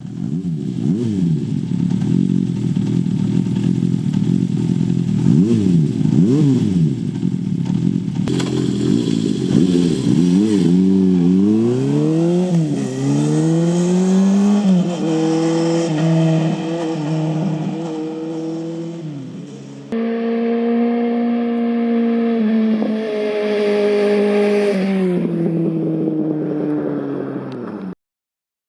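Honda CB400Four's air-cooled inline-four through a Yoshimura short exhaust: the engine revs up and down, then accelerates up through the gears, its pitch rising and dropping back at each shift. The sound stops abruptly near the end.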